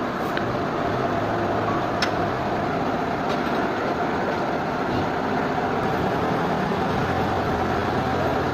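Sawmill machinery running steadily with a constant hum, with a few sharp clicks or knocks over the first five seconds.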